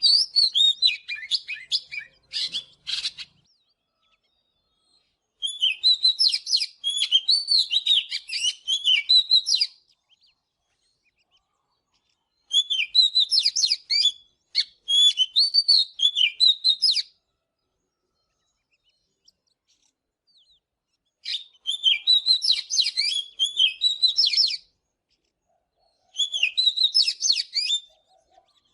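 Oriental magpie-robin singing: five bursts of quick, varied whistled and warbling notes, each a few seconds long, with silent pauses of a few seconds between them.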